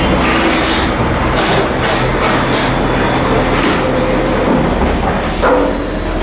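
Loud, steady machinery noise aboard a ship under outfitting: a constant low hum under a dense rumble, with a few short metallic clatters.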